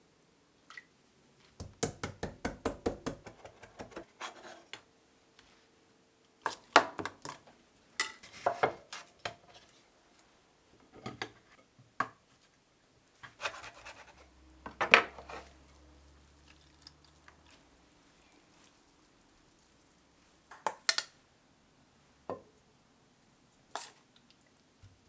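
Kitchen handling sounds: dishes and utensils knocking and clinking, with a quick run of taps about two seconds in, then scattered single knocks.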